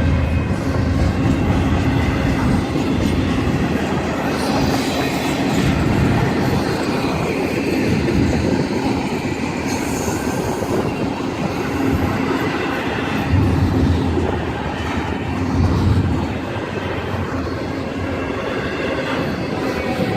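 Freight train rolling steadily through a grade crossing, its cars clattering over the rail joints with a continuous rumble. Brief high wheel squeals come about five and ten seconds in.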